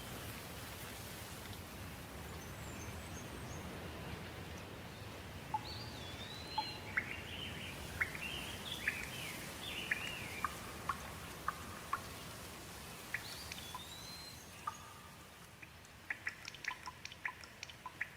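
Steady light rain with birds calling over it, a run of short chirps and arching, swooping whistles in the middle. Near the end the rain hiss thins and a quick patter of sharp water drips comes through.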